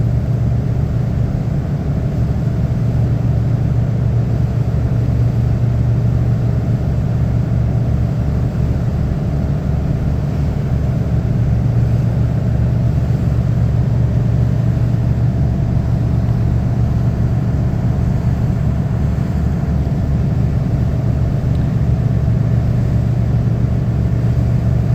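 Ferry's engine running steadily under way, heard on board: a constant low drone with a fast, even pulse beneath it.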